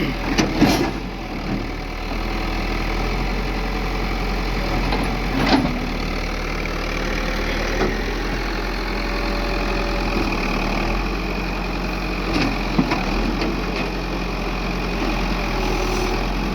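Backhoe loader's diesel engine idling steadily, with a few short knocks now and then.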